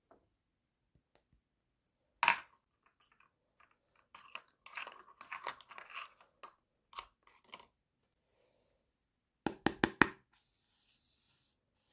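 Small plastic toy pieces and their packaging being handled: a sharp click about two seconds in, several seconds of scratchy rustling and tearing, then four quick clacks in a row near the end.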